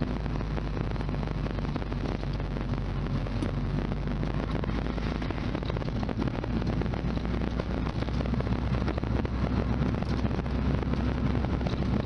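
A 1991 Lotus Elan M100's four-cylinder engine running steadily as the car is driven, with road noise, getting a little louder about two-thirds of the way through.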